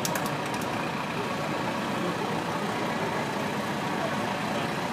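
Engines of a tandem pair of Massey-Harris 55 tractors, joined as one four-wheel-drive machine, running steadily at low speed. A few light clicks just after the start.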